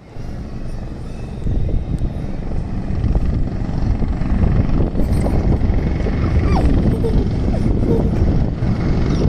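Helicopter running close by, its rotor blades beating heavily in a dense low chop, getting louder about a second and a half in.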